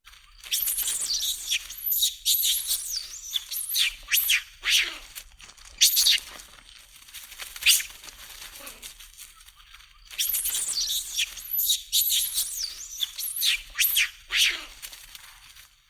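Shrill animal calls: a quick run of high squeals and shrieks that slide in pitch, easing off about eight seconds in before a similar run starts again near ten seconds.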